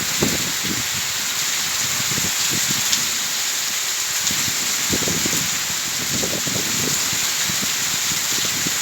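Heavy rain falling steadily: a dense, even hiss with irregular heavier splashes of drops and runoff underneath.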